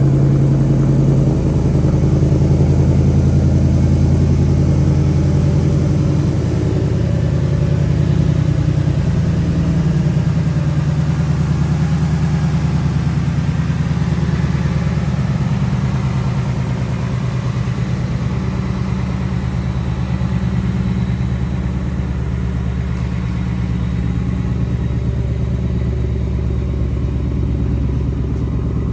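2021 Ford Mustang GT's 5.0-litre Coyote V8 idling steadily through its exhaust, still warming up after a cold start, with small shifts in its low note early on.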